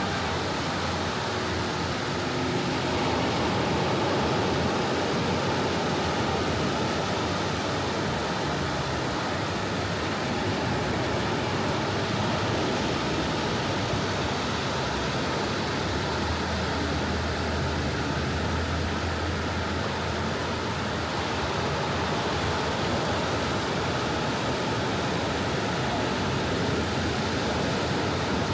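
Sea waves washing steadily onto a tropical beach, making an even rushing hiss with no single crash standing out.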